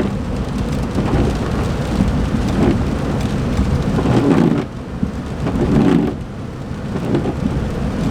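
In-cabin driving noise of a 2008 Smart ForTwo: low road and engine rumble from its 1-litre three-cylinder, swelling and easing several times. The engine is running without its misfire under load, the cylinder 3 coil fault cured.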